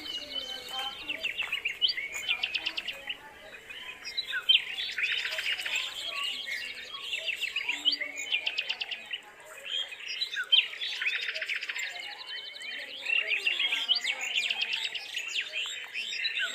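High-pitched bird chirping and peeping, in dense clusters of rapid notes that swell and fade about every five to six seconds, with scattered softer calls between them.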